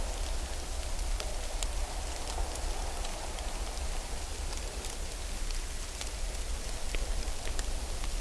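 Steady rain-like patter on a surface, with scattered light ticks and a constant low rumble underneath.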